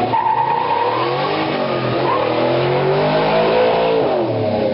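Car engine revving hard, its pitch climbing for about three seconds and then dropping away near the end, over a steady rush of noise.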